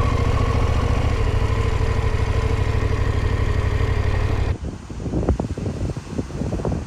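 Motorcycle engine running steadily at low revs. About four and a half seconds in it cuts off abruptly, giving way to gusty wind on the microphone with irregular crackles.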